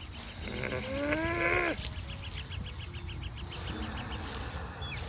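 A single bleat-like animal call lasting about a second, rising and then falling in pitch, over a steady background of chirping crickets.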